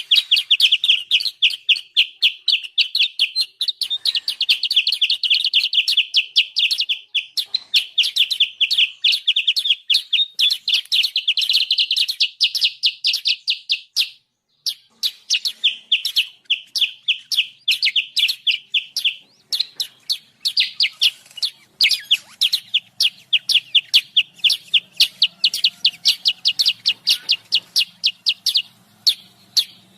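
Kutilang sutra bird giving an agitated chattering call: long runs of sharp, rapid notes, about ten a second, broken by short pauses. It is the noisy lure call used to draw wild birds of the same kind in.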